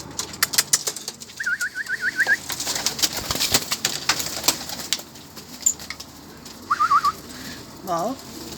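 Pigeons in a loft: quick sharp clicks of beaks pecking at feed, two short trills of rapid high peeps from a young pigeon, and a low coo near the end.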